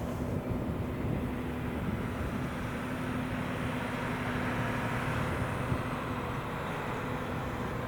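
A train running, a steady rumble with a steady hum over it.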